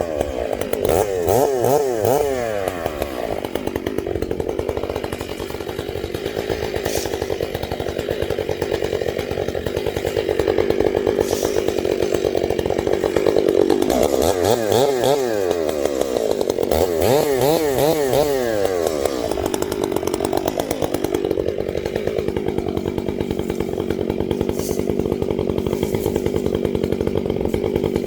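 Gas chainsaw running at high revs through the whole stretch, cutting downed storm wood. Its pitch wavers rapidly up and down near the start and again in the middle.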